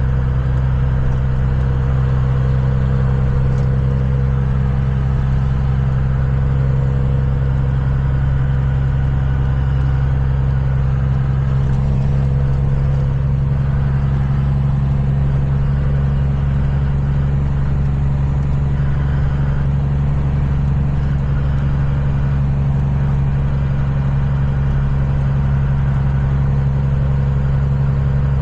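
Kenworth semi truck's diesel engine running steadily with a low hum while driving at low speed.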